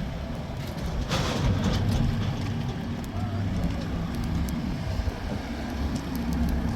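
A vehicle engine running steadily at a low, even pitch, with a short hiss about a second in.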